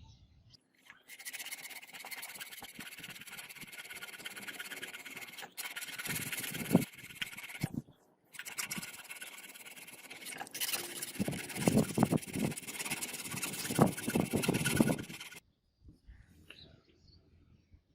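Steady abrasive rubbing, like a sword blade being worked with an abrasive or file, in two long runs broken by a short pause about 8 seconds in. The second run grows louder and coarser.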